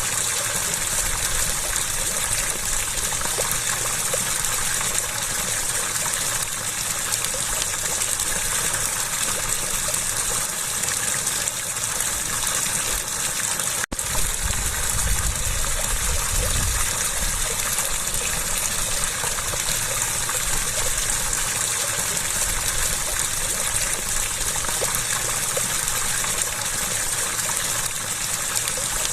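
Running water rushing and splashing in a steady hiss, with no change in flow. About halfway through the sound drops out for an instant, and a low rumble joins it for a few seconds.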